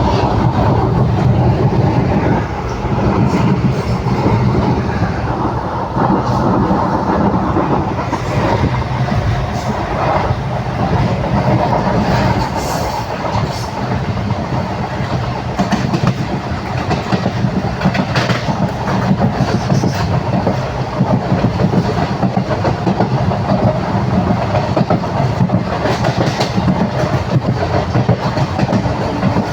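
Passenger train running at speed: a continuous loud rumble from the wheels and coaches, with a few sharper clattering moments along the way.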